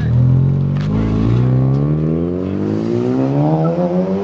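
Car engine revving hard, its pitch climbing steadily from about a second in until near the end, as at a car-meet burnout or launch.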